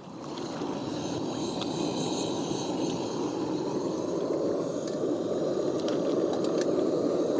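Flour-dusted oysters frying in a pan: a steady sizzle that starts suddenly and slowly grows louder, with a few sharp pops.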